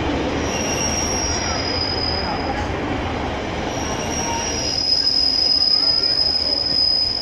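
Class 142 Pacer railbus running slowly past, its wheels squealing on the curved track over the rumble of wheels and underfloor engines. The high squeal comes and goes at first, then holds steady and gets a little louder from about halfway through.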